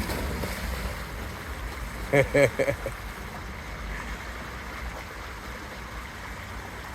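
Fast-moving creek water rushing steadily, with a short voice-like sound about two seconds in.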